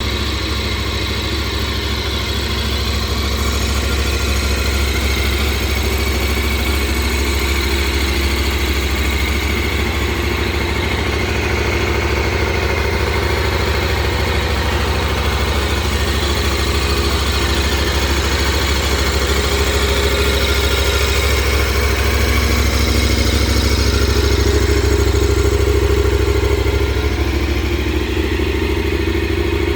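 2018 KTM 1090 Adventure R's 75-degree V-twin engine idling steadily.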